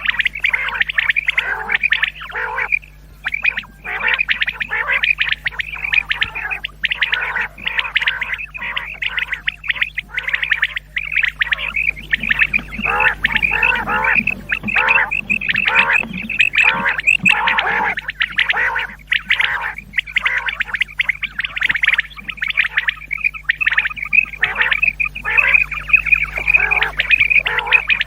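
Common quails calling in a dense run, many calls overlapping and repeating rapidly without a break, over a steady low electrical hum: a quail-calling lure recording for hunting.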